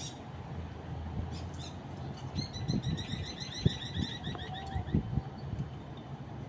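Pigeons scuffling in a fight, with low thumps and wing flaps, while a bird gives a rapid run of high chirps from about two seconds in until nearly five seconds.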